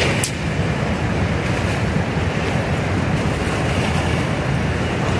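River rapids rushing steadily, a continuous loud roar of water, with a brief rustle just after the start.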